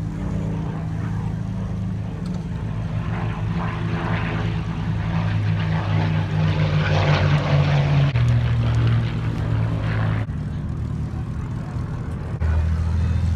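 Supermarine Spitfire piston engines, Rolls-Royce Merlin V12s, passing by. Their sound swells to a peak about seven seconds in and cuts off abruptly about ten seconds in, over a steady low drone that shifts pitch a few times.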